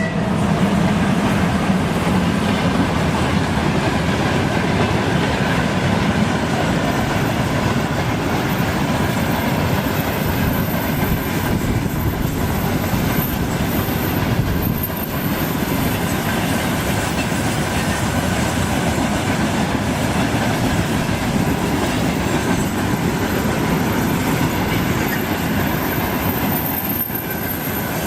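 Loaded freight train wagons rolling past at speed, wheels clattering over the rail joints in a steady heavy rumble, with a thin high wheel squeal over the top.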